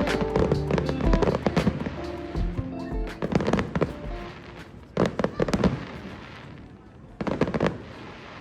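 Fireworks crackling in three separate bursts, with music playing over the first couple of seconds.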